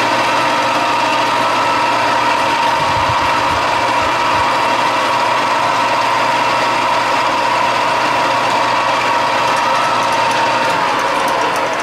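Machine tool running steadily with a high, even whine, then switched off about eleven seconds in, its pitch sliding down as it begins to spin down.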